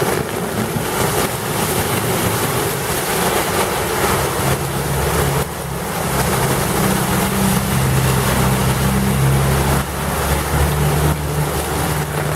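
Heavy rain pouring while vehicles drive through a flooded street, their tyres sloshing through deep water. From about four seconds in, the low, steady drone of a large vehicle's engine, a bus, rises over the rain.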